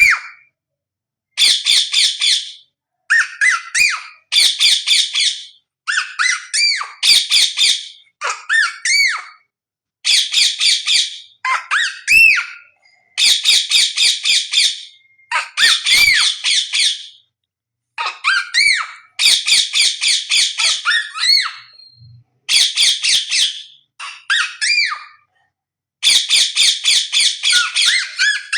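A parrot calling in repeated bursts of rapid, harsh squawks, about one burst every second or two, with short whistled notes that rise and fall in between.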